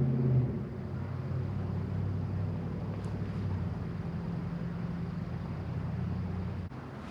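Electric trolling motor of an Old Town Autopilot 136 motorized kayak running with a steady low hum, cutting off suddenly near the end.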